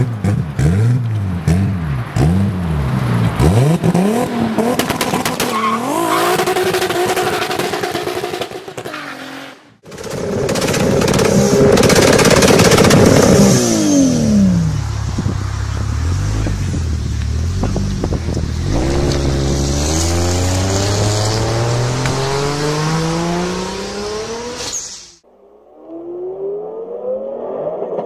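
Toyota Supra straight-six engines revving, rising and falling in quick blips, then one pulling away with its note climbing steadily for several seconds. Near the end, after a sudden break, a Lamborghini Aventador's V12 is accelerating, its pitch rising.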